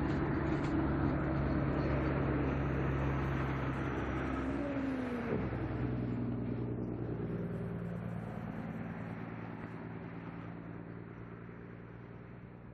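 Passenger train pulling away: a steady engine drone over the rumble of carriages on the rails, fading steadily as the train recedes. A brief whine slides in pitch about five seconds in.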